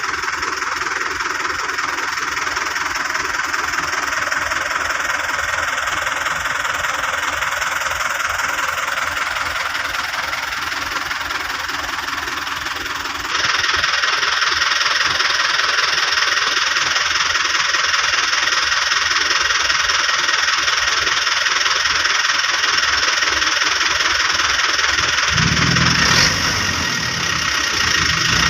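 Vehicle engine running steadily, growing louder and brighter about halfway through, with a deeper engine note coming in near the end.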